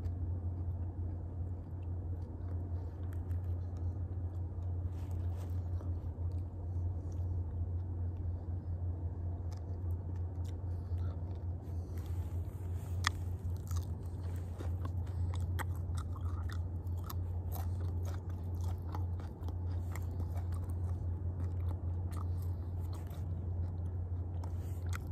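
A person chewing and crunching grasshoppers, with small crunchy clicks that come more often from about halfway through, over a steady low hum.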